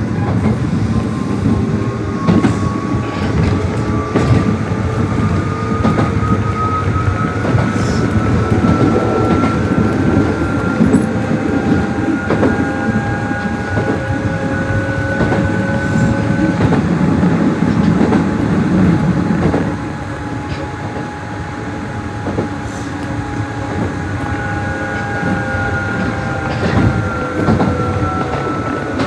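Nishitetsu 600-series electric train running, heard from inside the car: the traction motor and gear whine rises in pitch as the train picks up speed, with wheels clicking over rail joints. About twenty seconds in the running noise drops, and near the end the whine falls in pitch as the train slows.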